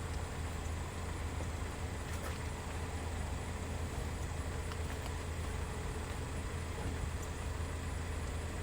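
Steady low hum with an even hiss over it inside a car, with a few faint knocks.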